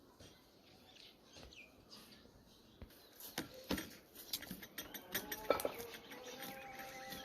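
Birds chirping, with scattered sharp clicks and knocks starting about three seconds in, and a steady held tone joining near the end.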